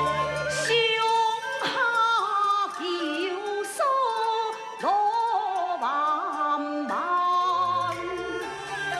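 Gezai (Taiwanese) opera singing: one voice slides and wavers through a melodic line over traditional instrumental accompaniment. The voice comes in about a second in and stops near the end, where the instruments carry on alone.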